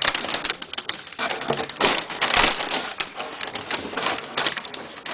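Continuous irregular crackling and rustling handling noise, loudest about two seconds in, as the puppets climb into the homemade time machine and close it.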